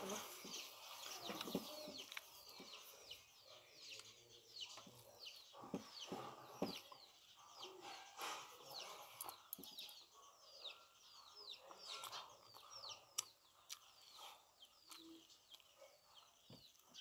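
Birds chirping faintly and steadily: short, high, falling chirps several times a second, over scattered small clicks and smacks of hand-eating and chewing close by.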